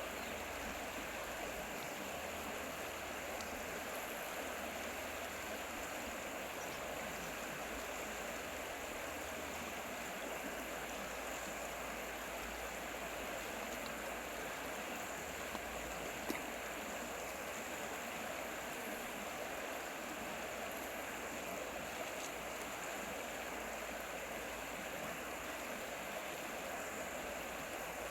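Stream water flowing steadily, an even rushing with no change, broken only by a single brief tick a little past halfway.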